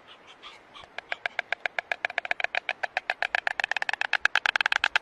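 An animal's rapid, even series of short chirping calls, about nine a second, growing louder about three and a half seconds in.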